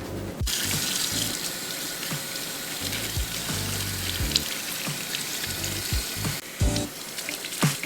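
Tap water running into a sink, starting suddenly about half a second in and stopping about a second before the end, over background music with a steady beat.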